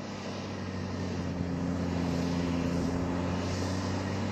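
Heavy earthmoving machine's diesel engine running steadily with a deep drone, growing louder over the first couple of seconds and then holding level.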